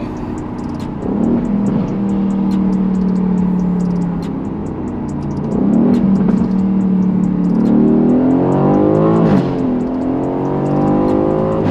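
Aston Martin Vantage's 4.0-litre twin-turbo AMG V8 through a Quicksilver straight-pipe exhaust, under load. The engine note holds fairly steady at first, then rises in a long pull and drops sharply at an upshift a couple of seconds before the end.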